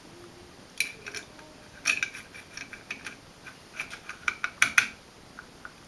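Small metal parts clicking and clinking as the ceiling fan's metal bottom nut is handled and fitted on, a run of sharp, irregular clicks with a short ring, the loudest close together near the end.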